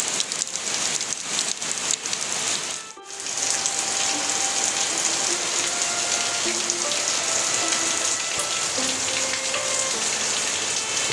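Steady rain falling, a dense even hiss with a brief dip about three seconds in. Faint short musical notes sound under the rain after the dip.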